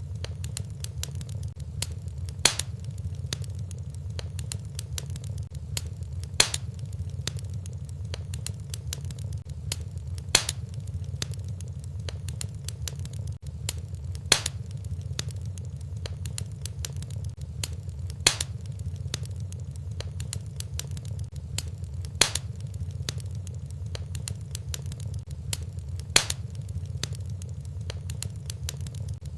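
Wood fire in a fireplace crackling over a steady low rumble, with many small crackles and a sharp loud pop about every four seconds.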